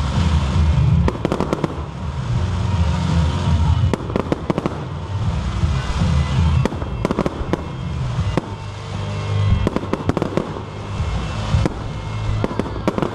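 A dense, irregular series of sharp cracks and bangs over a continuous low rumble.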